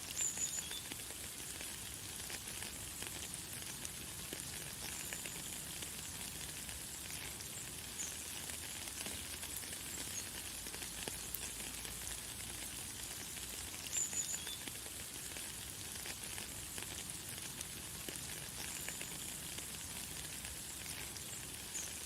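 Steady hiss of light, fine rain falling, with short high bird chirps now and then, the clearest ones near the start and about two-thirds of the way through.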